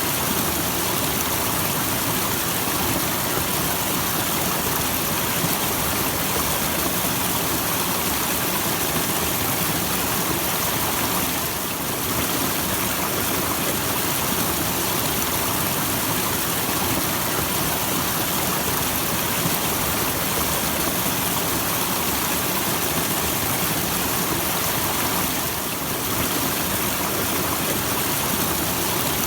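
Small waterfall splashing steadily into its pool, an even rush of falling water that dips briefly twice.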